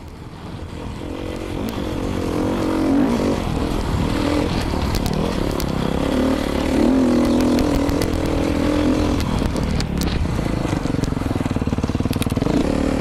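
2019 Beta 500 RRS single-cylinder four-stroke dirt bike with an FMF exhaust, ridden hard off-road and heard from the rider's helmet mic: the engine revs rise and fall with throttle and gear changes, building in loudness over the first few seconds and then holding, with scattered clicks.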